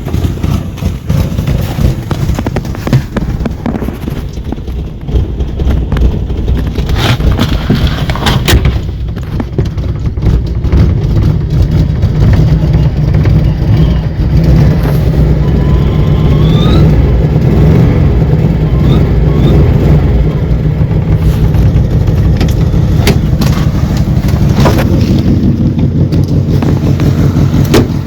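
Citroën GS Club's air-cooled flat-four engine running steadily while warming up after a cold start in hard frost. It gets somewhat louder partway through, with a few sharp clicks.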